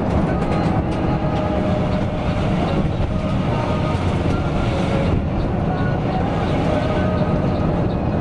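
Coach bus underway: steady low engine and road rumble with light rattles.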